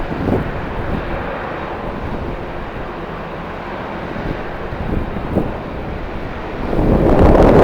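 Strong wind buffeting the microphone over the steady rumble of jet airliner engines, with a louder gust near the end.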